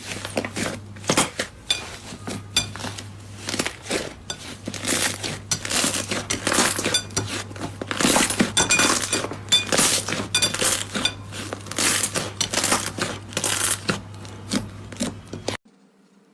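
Slime being squeezed and kneaded by hand, giving a dense run of crackling, popping clicks over a steady low hum; it cuts off abruptly near the end.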